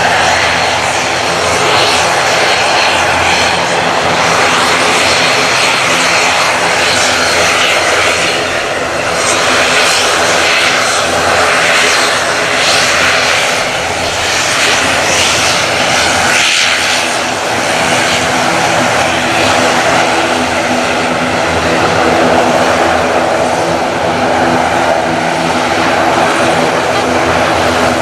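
ATR 72-600 turboprop running loud and steady, a droning hum of propeller tones over the roar of its twin PW127 turboprop engines.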